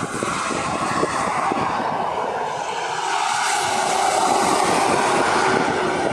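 Heavy road-train lorry driving off, its diesel engine running with a steady rumble that grows a little louder in the second half.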